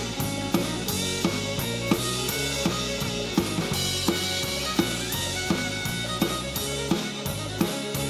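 Drum kit played along to a full-band country-rock recording during an instrumental stretch with no vocals. Sharp snare hits land steadily about every 0.7 seconds over kick drum and bass.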